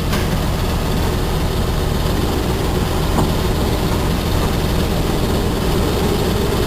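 Heavy cement tanker truck's diesel engine running steadily at low revs, a deep even drone.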